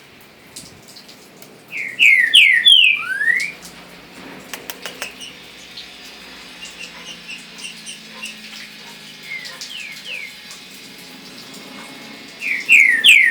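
A songbird sings a loud phrase of four quick downward-slurred whistles followed by one rising whistle, about two seconds in and again near the end, with softer scattered chirps in between.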